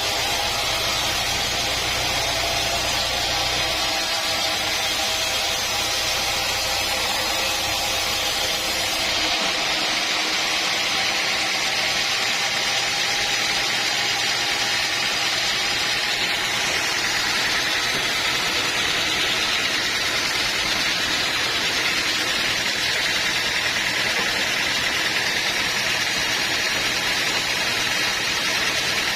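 Sawmill machinery running steadily: a motor's hum under a dense, hissing mechanical noise. The low rumble weakens about four seconds in and drops away about nine seconds in, while the hiss carries on.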